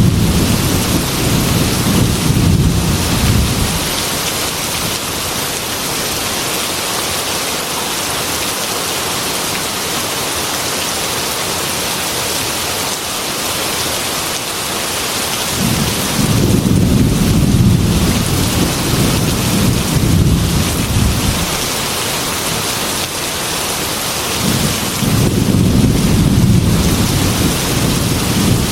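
Heavy rain falling steadily on a glass window, with rolling thunder rumbling three times, each lasting a few seconds: at the start, a little past the middle, and near the end.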